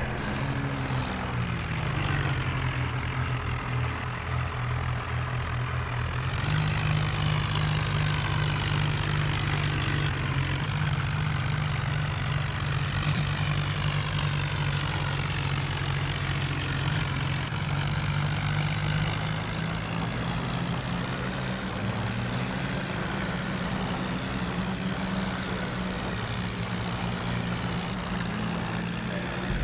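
Tractor engine running steadily, its speed shifting a few times: the pitch drops near the start, steps up about six seconds in, and dips and recovers a little past the middle.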